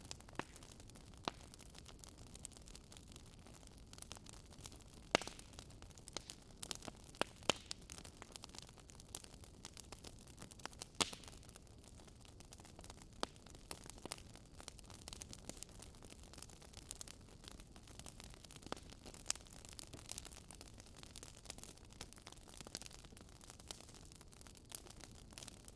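Fire crackling in a fireplace: irregular sharp pops and snaps over a steady faint hiss, a few louder pops standing out about five, seven and eleven seconds in.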